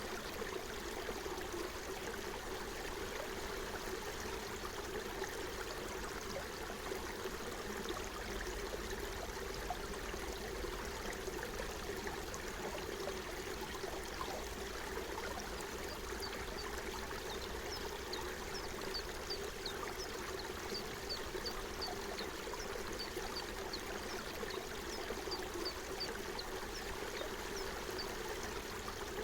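A forest stream flowing steadily. Through the second half a small bird calls in a long run of short, high chirps.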